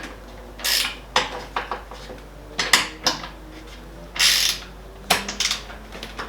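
Irregular metallic clanks, clinks and short scrapes, about six bursts spread over several seconds, from metal fittings being handled on an aluminium roof rack and awning.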